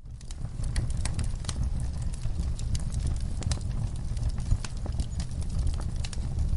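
Wood fire in a fireplace crackling, with many irregular sharp pops over a steady low rumble of burning.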